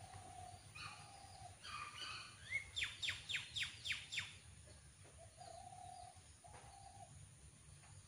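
Birds calling: a few harsh notes, then a quick run of six sharp descending notes at about four a second, the loudest part. Short, lower steady notes come and go before and after.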